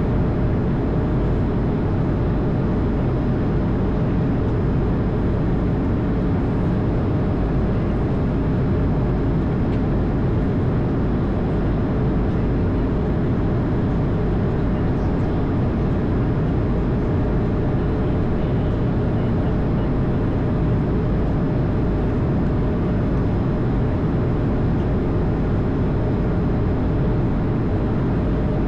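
Steady flight-deck noise of an Airbus A220, a constant rush with engine hum and a faint steady tone running through it, unchanging throughout.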